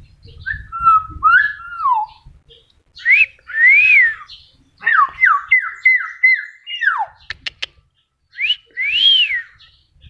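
A pet talking bird whistling: clear notes that slide up and down, with arched notes about three and nine seconds in and a run of six quick falling whistles in the middle, followed by a few sharp clicks.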